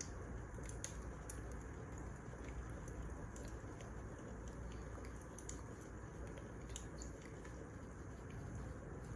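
Wood fire crackling: irregular small pops and snaps over a steady low hiss of burning firewood.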